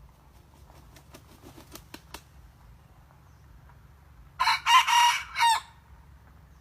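Red junglefowl rooster crowing once, a short clipped crow of just over a second, about four seconds in. A few faint clicks come before it.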